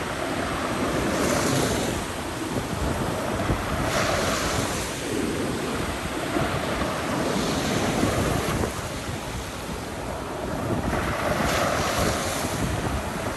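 Storm-driven waves breaking, a hissing wash of surf swelling every few seconds, under strong gale wind buffeting the microphone with a low rumble.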